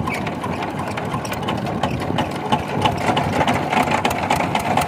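Small diesel engine, of the kind fitted to a power tiller, running steadily with a rapid clatter.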